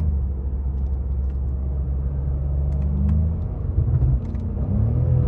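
BMW F90 M5 Competition's twin-turbo V8 running at a steady low drone while driving; about three seconds in the engine note changes, with the pitch dipping and climbing again as the revs shift.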